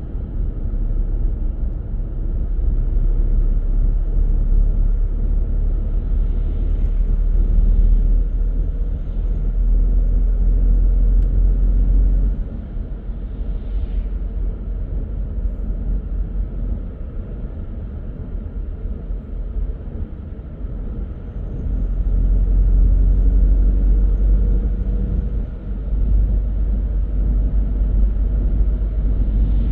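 A car on the road: a steady low rumble of tyres and engine, getting quieter about twelve seconds in and louder again around twenty-one seconds.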